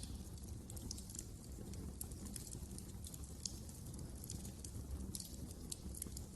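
Wood fire burning in a fireplace: a steady low rumble of flames with frequent small, sharp crackles and pops at an irregular pace.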